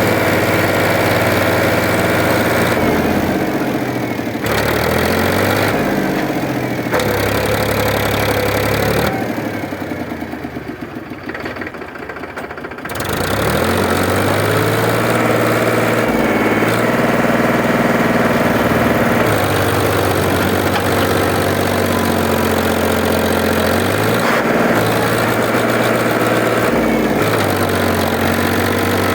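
Mahindra tractor's diesel engine running with its revs rising and falling; it drops lower and quieter about nine seconds in, then picks back up about thirteen seconds in.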